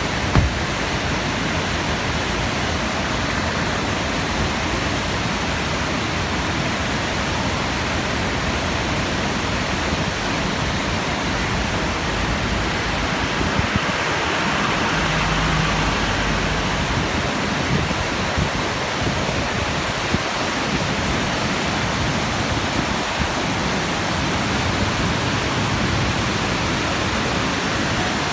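Kodai Cascade waterfall pouring, a steady unbroken rush of falling water.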